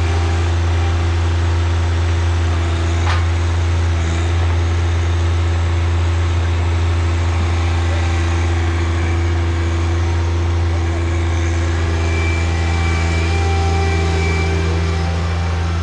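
Engine running steadily at an even speed, a loud deep constant drone, with one sharp click about three seconds in.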